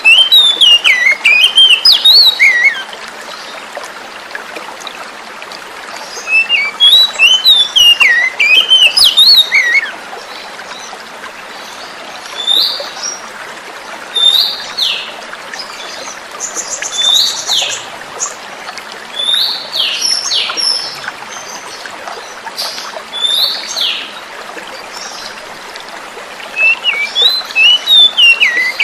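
Oriental magpie-robin (kacer) singing over the steady sound of flowing water. Bursts of rapid, varied whistled phrases come near the start, about a third of the way in and near the end, with single whistled notes every second or two between them.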